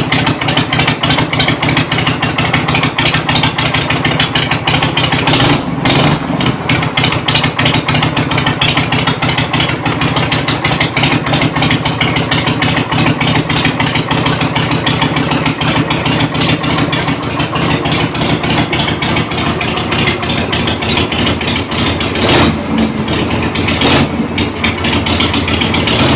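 Harley-Davidson Shovelhead V-twin engine running with an even, rapid beat, clearing her throat. Three brief louder surges, like throttle blips, come about five seconds in and twice near the end.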